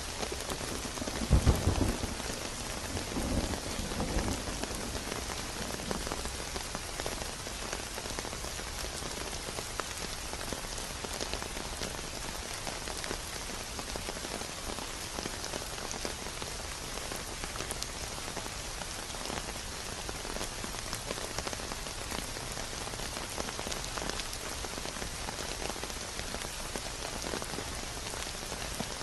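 Steady heavy rain pattering on a surface, a dense even hiss of drops. Two brief low rumbles rise above it in the first few seconds, the first the loudest.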